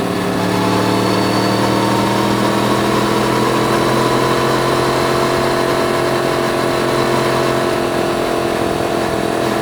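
Yamaha MT-10's crossplane inline-four engine running at steady low revs, its note holding nearly constant.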